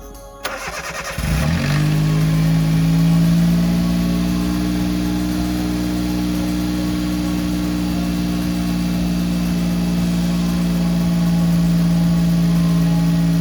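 Suzuki K6A three-cylinder engine cranked by the starter for about a second, catching, briefly flaring up and settling into a steady idle: a test start with a newly fitted cam angle sensor.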